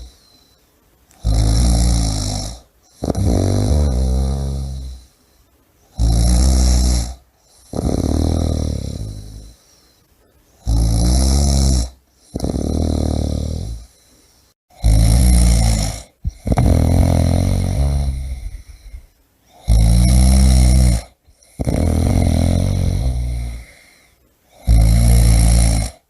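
A person snoring loudly and rhythmically: each breath is a short harsh snore followed by a longer one that trails off, with a brief pause between breaths, about five breaths in all.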